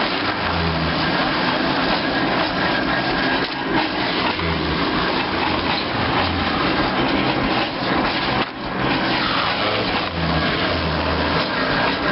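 Steam engine driving a veneer mill: a steady mechanical din from the running machinery, with short low-pitched swells every few seconds.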